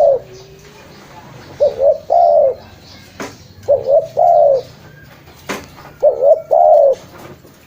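Spotted dove (tekukur) cooing: a repeated phrase of two short coos and then a longer drawn-out coo, three times about two seconds apart.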